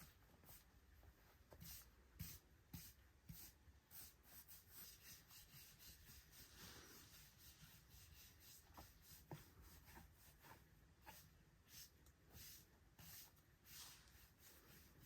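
Near silence with faint, scattered light clicks and scrapes at no steady rhythm over a low background hum.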